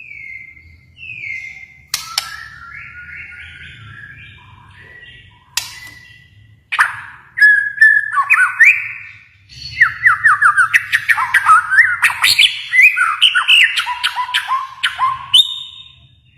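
Kalimantan white-rumped shama (murai batu) singing: clear whistled phrases at first, then from about halfway a louder, rapid run of varied whistles and sharp clicking notes.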